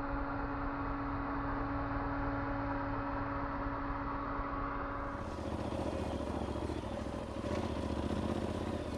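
Dual-sport adventure motorcycle engine running steadily while riding, with a steady hum under it. About five seconds in, the sound turns brighter and noisier.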